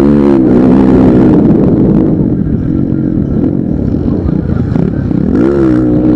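Motocross bikes' engines revving on the track, their pitch rising and falling with the throttle and gear changes, with a sharp rev up and back down near the end.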